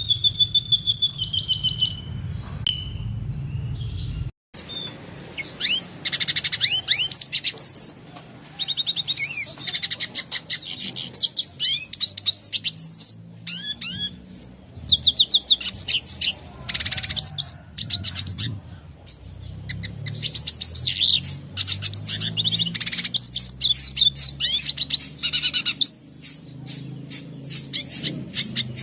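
Red siskin singing: rapid twittering phrases of high chirps, trills and downward-sweeping notes, separated by short pauses, with a brief dropout about four seconds in.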